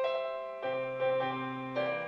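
Background music: a slow hymn played on piano, with new chords and notes struck about every half second to second and each one fading away.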